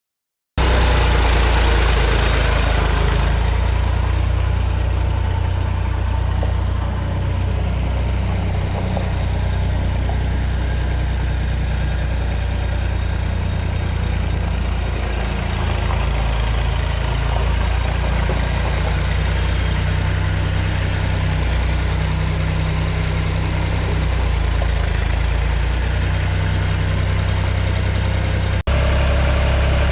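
1973 Massey Ferguson 135 tractor engine idling steadily. It breaks off for an instant near the end and comes straight back.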